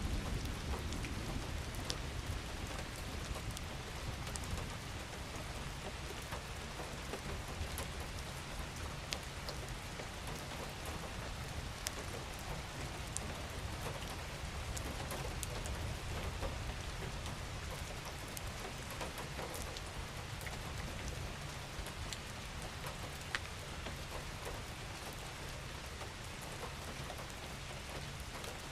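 Steady rain falling, with individual drops ticking sharply now and then over a low rumble.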